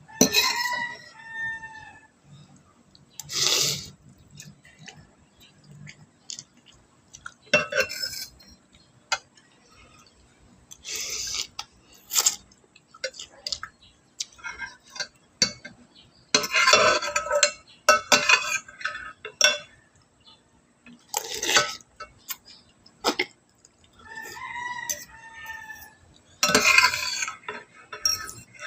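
Eating sounds: irregular slurps and mouth noises with utensils clinking against dishes. A rooster crows twice in the background, near the start and again near the end.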